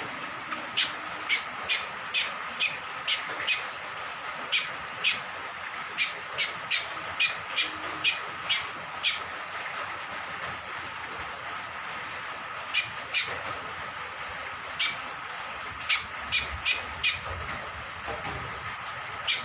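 Cucak kombok (kecial kombok), a honeyeater, giving short sharp call notes in quick runs. One run goes on for about the first nine seconds, then there is a pause of a few seconds, then another run, all over a steady hiss of rain.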